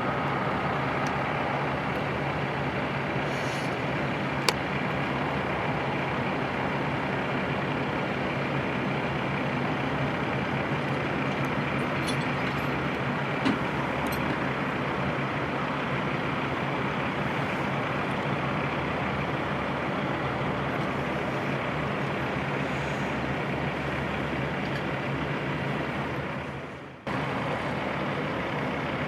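Heavy diesel truck engines running steadily with an even rumble, with two short sharp clicks and a brief drop-out near the end.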